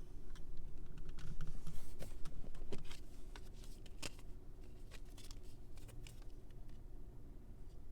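A run of light clicks and taps from car interior controls, buttons and switches being pressed and handled, busiest in the first half. A steady low hum runs underneath.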